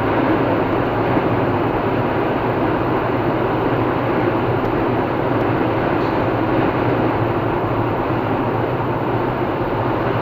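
Steady road noise of a car driving at speed on a highway, tyre roar and engine hum running evenly without change.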